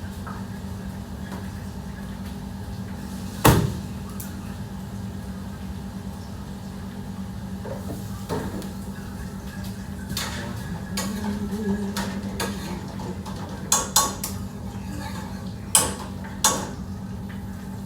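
Kitchen pots, pans and metal utensils clattering: one loud knock about three and a half seconds in, then scattered clanks, several close together near the end, over a steady low hum.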